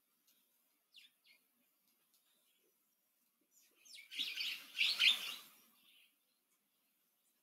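Birds calling: two faint short chirps about a second in, then a louder spell of bird calls lasting about a second and a half, starting about four seconds in.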